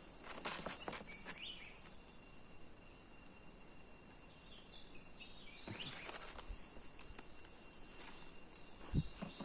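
Steady high-pitched insect drone, with a few faint bird chirps and a few soft knocks or rustles.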